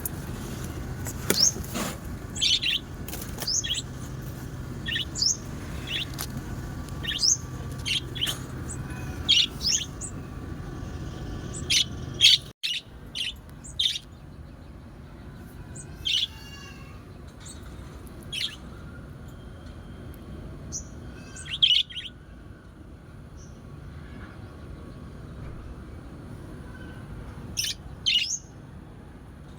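Small birds chirping in short, sharp high calls, many in quick succession at first, then scattered single chirps after a brief break about halfway through.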